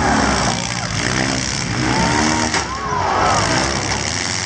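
Several car engines revving, their pitch rising and falling and overlapping, with voices mixed in.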